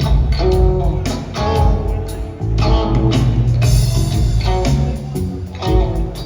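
Live rock trio playing an instrumental passage: rhythmic electric guitar chords over bass guitar and drums, recorded loud on a phone in the audience.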